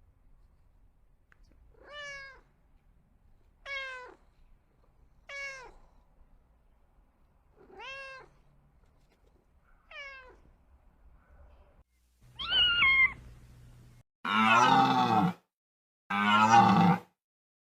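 A cat meowing: five short calls that fall in pitch, about two seconds apart. After about twelve seconds a different animal calls three times, the last two calls louder and longer, about a second each.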